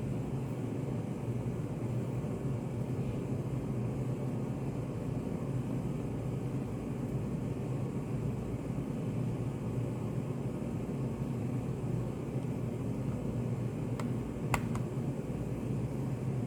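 Study cafe room ambience: a steady low hum, with a few small sharp clicks near the end.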